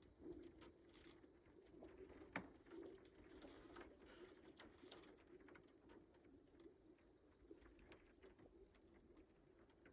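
Faint, steady, wavering hum of thawing lake ice as the spring ice cover breaks up, with scattered sharp ticks and one sharper crack about two and a half seconds in.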